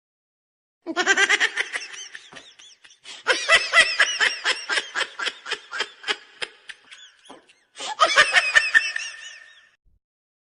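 Laughter sound effect: a high-pitched voice laughing in quick repeated 'ha-ha' pulses, in three bouts that fade away near the end.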